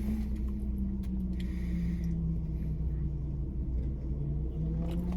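Car engine idling, heard from inside the cabin: a steady low hum with a tone that sags slightly in pitch midway and rises again near the end.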